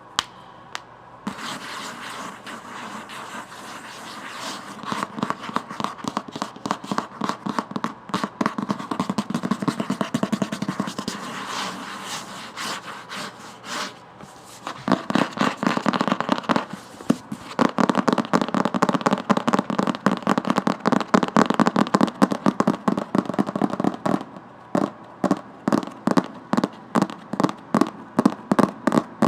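Rapid tapping and scratching on a book: a dense run of quick, crackly clicks that thins out into separate taps near the end.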